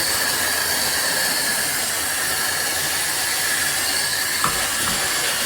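Water spraying steadily from a GRICH rainfall and handheld shower head combo, an even hiss, with a small click about four and a half seconds in.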